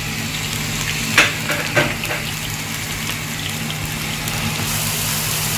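Marinated boneless chicken strips sizzling as they fry in hot oil in a non-stick pan, a steady hiss. There are two short knocks about a second and nearly two seconds in.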